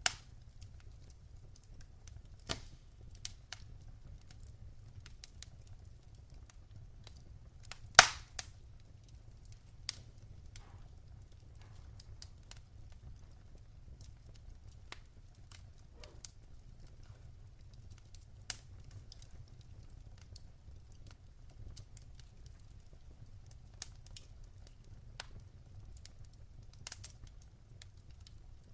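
Wood fire crackling: irregular sharp pops and snaps over a low steady rumble, the loudest pop about eight seconds in.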